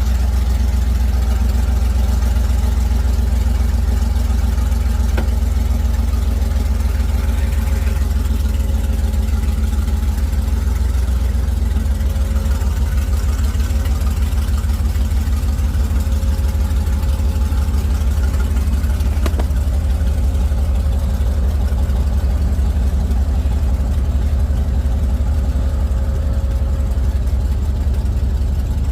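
Heavy engine running steadily at low revs with a deep rumble, and a faint click twice.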